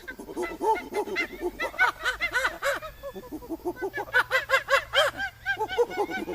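Many animals calling at once: a dense chatter of short, overlapping pitched calls, several a second.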